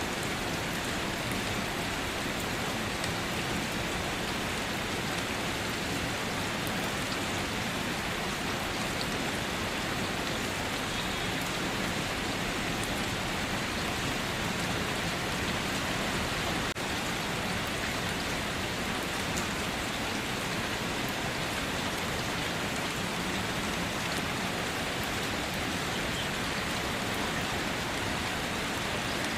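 Steady rain falling, an even hiss with scattered drops tapping on surfaces and one faint click about 17 seconds in.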